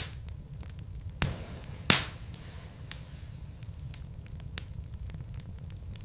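Wood logs burning in a fireplace: a low, steady rumble of flame with scattered crackles and sharp pops, one at the start, one just after a second in, and the loudest about two seconds in.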